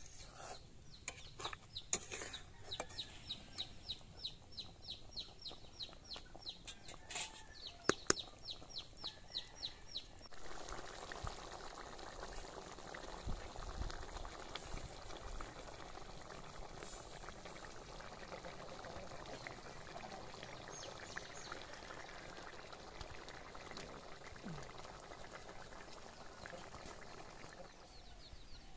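A bird calling in a fast run of short, high chirps, about three a second, with a few sharp knocks among them. From about ten seconds in, a steady hiss takes over.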